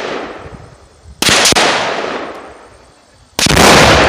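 Heavy rifle shots, three loud sharp reports about two seconds apart, the middle one doubled. Each trails off in a long rolling echo.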